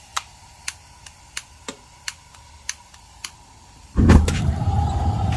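A string of sharp clicks as the burners are lit. About four seconds in, the triple-burner propane forge catches with a sudden loud whoosh and then runs steadily, its burners hissing with a faint hum.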